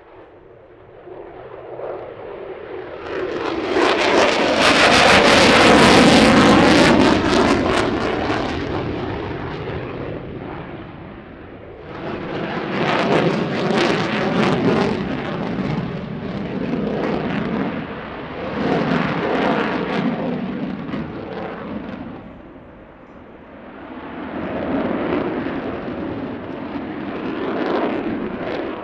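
Jet aircraft flying past: a loud, crackling roar swells to its peak about five seconds in and fades, then surges again several more times as the jet turns and manoeuvres.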